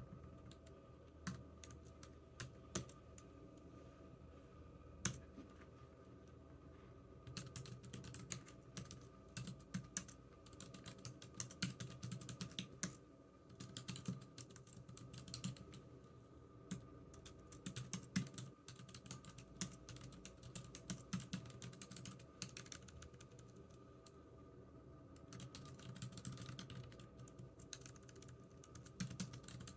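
Typing on a computer keyboard: a few scattered keystrokes at first, then fast, continuous runs of key clicks from about a quarter of the way in, with a short pause near the end before typing picks up again.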